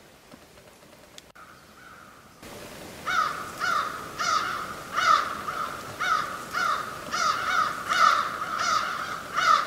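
A bird calling over and over in short harsh calls, about two a second, starting about three seconds in after a faint start.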